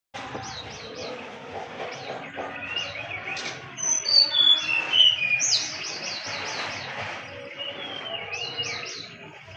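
Songbirds singing over one another: bursts of rapid, high downward-sweeping notes repeated several times, mixed with clear whistled notes and gliding phrases, loudest about four to six seconds in.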